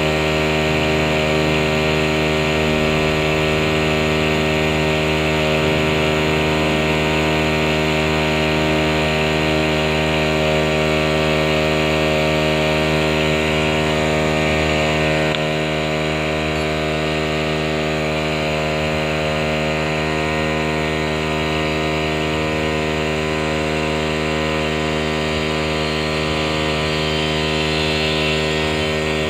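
A motor running steadily at a constant speed after spinning up just before, dropping slightly in level about fifteen seconds in.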